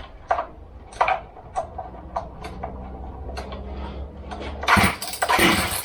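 Shindaiwa 488 two-stroke chainsaw being tried after a rebuild: a series of short clicks, then near the end two hard pulls of the recoil starter cord cranking the engine over against strong compression.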